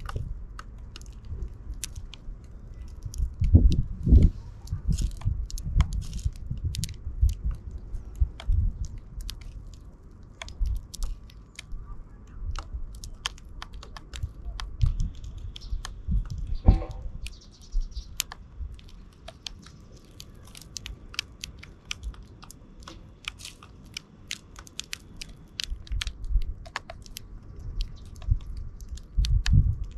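House sparrows pecking and cracking seeds close to the microphone: a dense, irregular run of small clicks and crunches, with low thumps among them.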